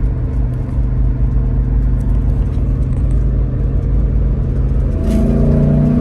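GM L92 6.2-litre V8 in a Toyota Landcruiser 100 running at steady revs, then climbing in revs from about five seconds in as it begins to accelerate.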